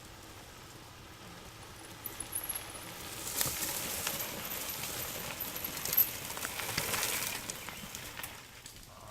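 Mountain bike riding over rough dirt singletrack: tyre noise with the bike clattering and knocking over roots and rocks. It builds about three seconds in, has one sharp loud knock partway through, and fades near the end.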